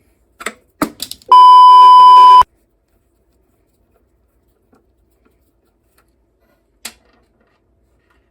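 A loud, steady beep at about 1 kHz, a little over a second long, typical of an editor's censor bleep laid over a spoken word. A few short metallic clicks from hand tools come just before it, and one more a few seconds later.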